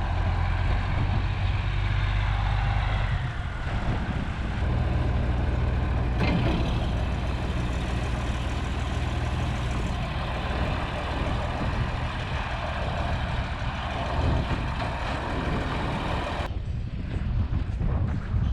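A truck engine running at low speed, moving slowly, a steady low rumble that shifts about three and a half seconds in and again near the end.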